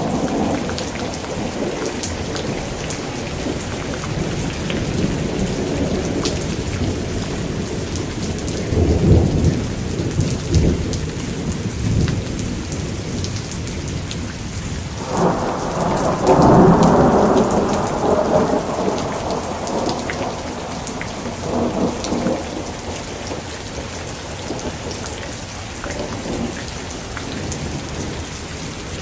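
Steady rain with repeated rolls of thunder: a rumble about a third of the way in, a bigger, longer roll around the middle, and fainter ones after it.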